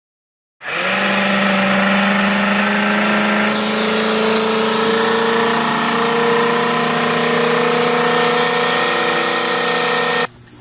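Dodge car engine running at a steady idle. It starts abruptly about half a second in and cuts off suddenly near the end.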